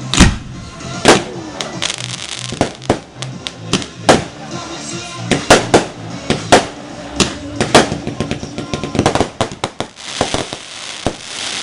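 Fireworks going off: a string of sharp, irregular bangs, with a denser run of rapid crackling near the end.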